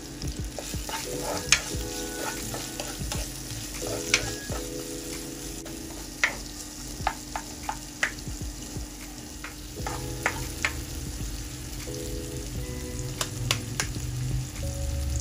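Food sizzling in a hot pan as it is stir-fried, with sharp clicks of a utensil striking the pan every second or so.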